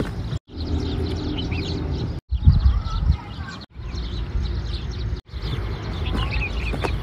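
Birds chirping over a steady low rumble, in short outdoor clips cut together; the sound drops out briefly four times at the cuts.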